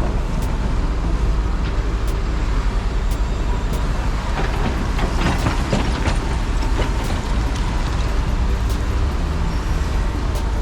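Road traffic noise: a steady low rumble of motor vehicles with a few light ticks.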